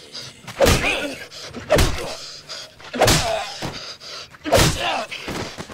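A baseball bat hitting a zombie's body four times, heavy thuds a second or so apart, each followed by grunting.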